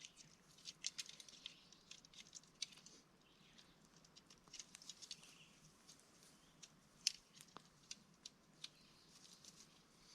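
Faint, irregular small clicks and rustles from tent fabric and poles being handled during setup, with one sharper click about seven seconds in.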